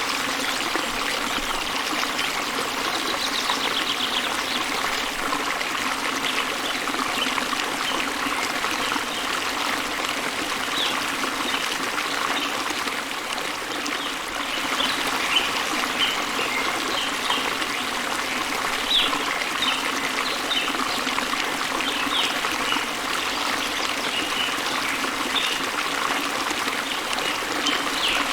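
Small waterfall spilling into a river, rushing and splashing steadily. Brief high bird chirps sound now and then over the water, more often in the second half.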